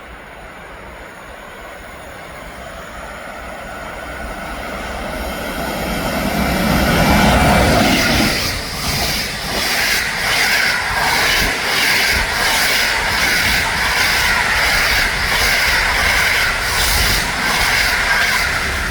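A train approaching and passing close by: a rumble building to a peak about seven seconds in, then a long run of evenly spaced wheel clacks over the rail joints, about one and a half a second, with a steady high squeal from the wheels, easing off near the end.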